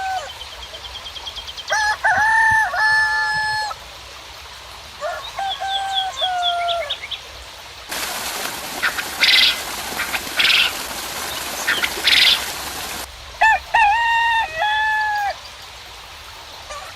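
Rooster crowing three times, each a long pitched call. Between the second and third crows, an even hiss of rain starts suddenly and cuts off after about five seconds, with higher bird calls heard through it.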